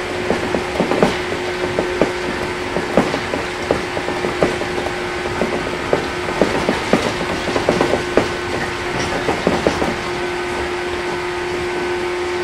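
Onboard running sound of a JR 115 series EMU: a steady hum with a constant tone, under an irregular run of clicks and knocks from the wheels on the track and the rattling car. The clicking dies away near the end, leaving the steady running noise.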